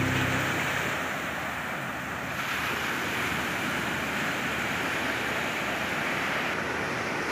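Sea waves breaking and washing up on a beach: a steady rushing noise.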